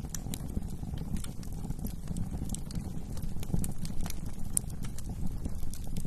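Wood fire burning in a fireplace: a steady low rumble of flames with irregular sharp crackles and pops, a few each second, from the burning wood.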